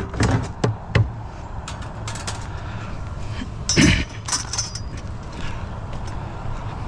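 Scrap items being handled and set down in a truck, with sharp knocks and clatters in the first second and a louder clattering about four seconds in. The truck's engine idles steadily underneath.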